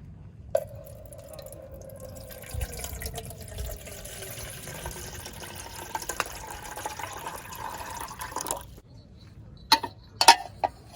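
Liquid being poured into a container for about eight seconds, starting and stopping abruptly, with a pitched ring that shifts as the container fills. A few sharp knocks follow near the end.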